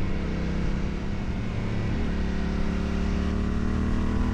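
Yamaha Ténéré 700's parallel-twin engine running under way, with wind rush. About two seconds in the engine note drops, as at an upshift, then rises steadily as the bike pulls through the gear.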